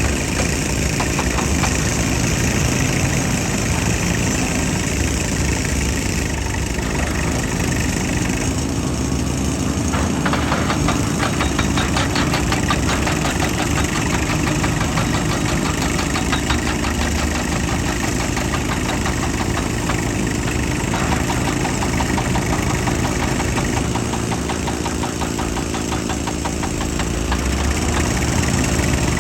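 Heavy machine's engine running steadily, its note changing several times.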